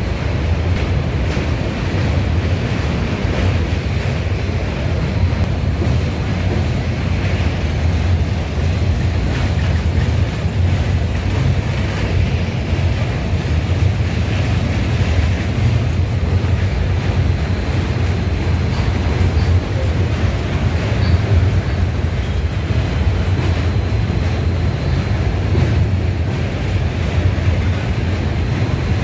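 Train running, a steady low rumble with wind rushing over the microphone.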